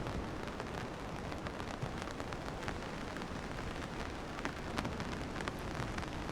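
Steady rain falling, with many separate drops ticking sharply close by over a constant hiss.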